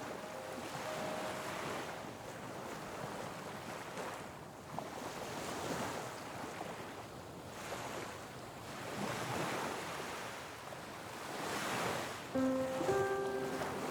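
Ocean surf washing on the shore, swelling and fading every couple of seconds, with some wind on the microphone. Music notes come in near the end.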